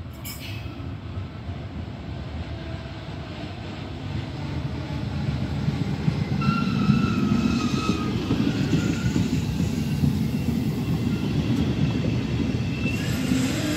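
Trenitalia regional passenger train pulling into a station along the platform. Its low rumble grows louder from about four seconds in as the train draws level, with thin high squealing tones midway and a rising whine near the end.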